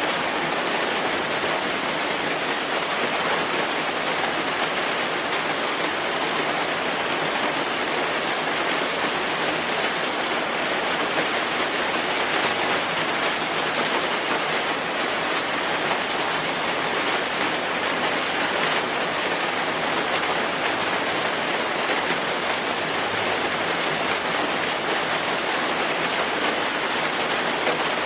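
Steady rain falling, an even hiss of many drops with no breaks or changes in level.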